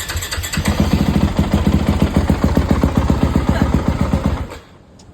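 Yamaha YZ250F dirt bike's single-cylinder four-stroke engine running just after starting, with almost no fuel in the tank. It picks up and gets louder under a second in, then stops about four and a half seconds in.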